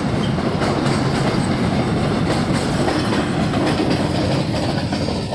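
Freight train's loaded container wagons and tail brake van passing close by: a steady rumble of steel wheels on rail with a run of clacks over the rail joints.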